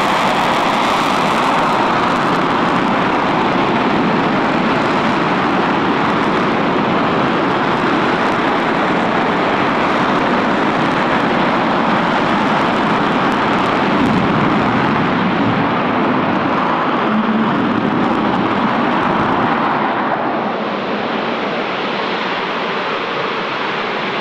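Steady, loud roar of an RS-25 liquid-fuelled rocket engine firing on a test stand. It eases slightly about twenty seconds in.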